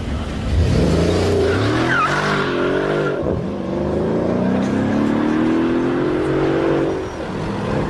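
Mercedes-AMG car accelerating hard. The revs climb quickly about half a second in, with a short high squeal about two seconds in. After a drop around three seconds, the engine pulls in one long steady climb in pitch until about seven seconds, then backs off.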